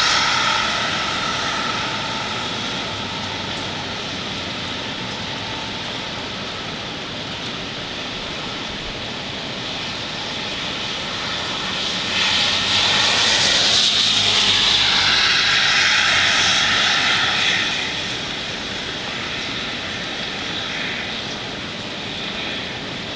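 Hurricane wind rushing steadily, with a louder gust swelling about twelve seconds in and dying away some five seconds later.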